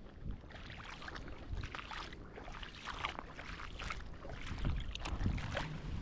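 Wind buffeting the microphone, with irregular splashing and crackling of shallow water at the shore, about two strokes a second.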